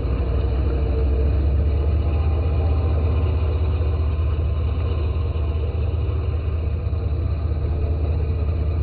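Steady, loud low engine-like rumble with a fast flutter, sounding muffled with no high end.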